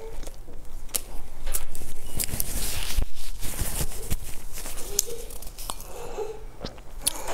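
Close-miked chewing and mouth sounds, with many sharp clicks and crackles, and a paper tissue rustling as it is wiped across the mouth.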